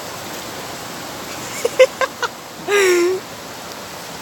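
Waterfall rushing steadily. About three seconds in, a person gives a brief loud call, just after a few short clicks.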